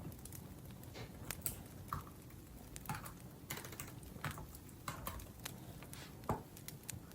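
Typing on a laptop keyboard: scattered, irregular key clicks over a low, steady background.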